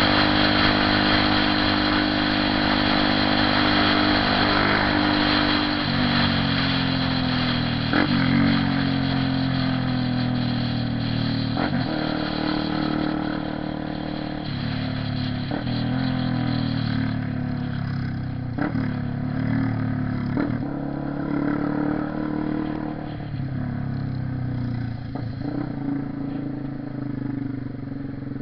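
Honda CB 300R motorcycle engine running under way, its note shifting in pitch several times, each shift marked by a short sharp crack. It fades a little near the end.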